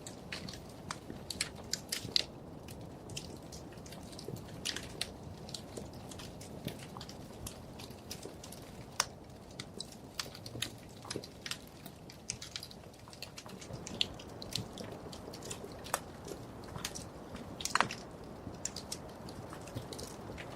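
Wood fire crackling in a fireplace: a steady low rumble of flames with frequent irregular sharp pops and snaps, a few louder ones scattered through.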